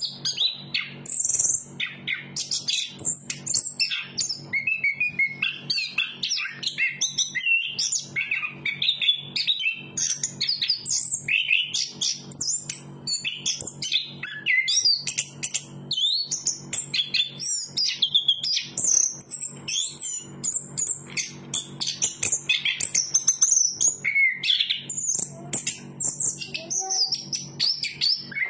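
Chestnut-capped thrush (anis kembang) singing a long, unbroken, rapid song of varied high whistles, chirps and trills.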